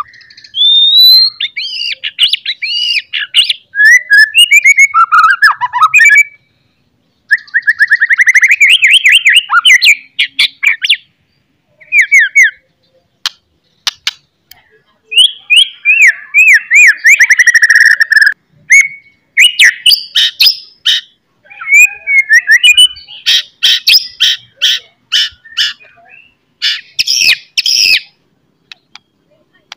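A songbird singing loud, varied phrases of fast trills, sweeping whistles and sharp clicking notes, with short pauses between phrases. It is a masteran-style song recording used to stir captive white-rumped shamas into singing.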